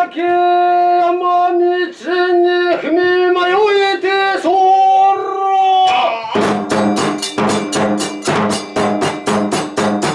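Kagura festival music: a long held melodic line for about six seconds, then the drum and hand cymbals come in with a fast, even beat of about three to four strokes a second.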